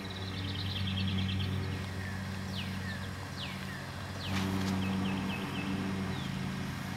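Birds calling: a quick high trill, then several short whistles that slide downward, and another trill later, over a steady low hum. A single sharp knock comes about four seconds in.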